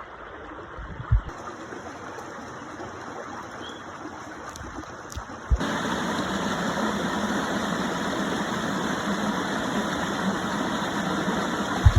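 Steady rush of waterfall and stream water, which jumps louder about halfway through. A short low bump comes about a second in, another at the jump, and one at the end.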